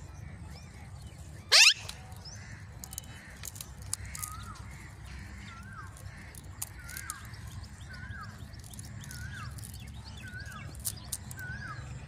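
Bird calls: one loud, sharp shriek that sweeps steeply upward in pitch about a second and a half in, then a run of short, faint repeated chirps, about one a second.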